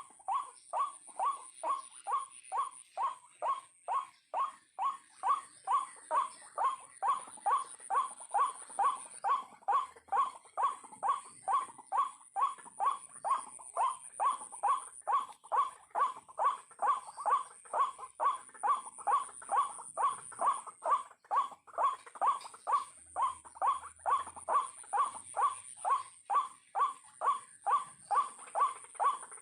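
White-breasted waterhen (ruak-ruak) calling: one monotonous note repeated over and over, about two notes a second, without a break.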